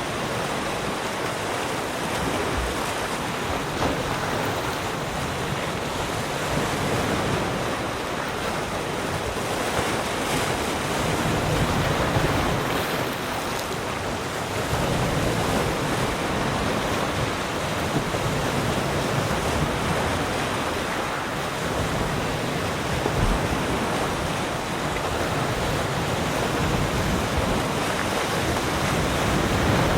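Sea surf: waves breaking and washing on the shore, a continuous rush with gentle rises and falls in loudness, with some wind noise on the microphone.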